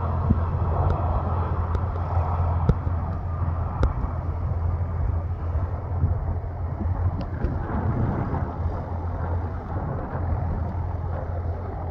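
Steady low rumble of an arriving easyJet Airbus airliner's jet engines, mixed with wind on the microphone.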